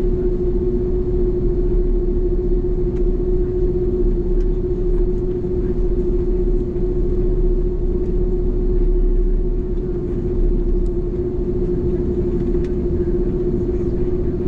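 Steady cabin rumble of an Airbus A330, with a constant mid-pitched hum running through it.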